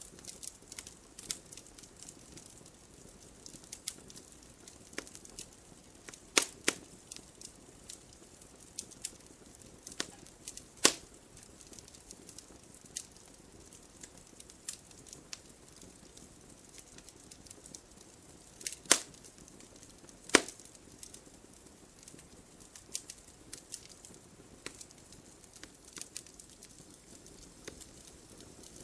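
Wood fire burning in a fireplace, crackling: scattered sharp pops and snaps of burning logs over a faint steady hiss, with a handful of louder pops spread through.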